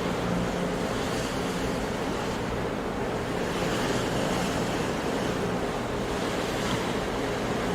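Sea surf washing steadily, an even rushing noise with no breaks.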